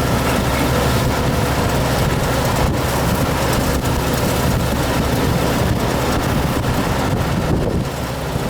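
Rice combine harvester running steadily in the field, a constant engine hum under a wash of mechanical noise.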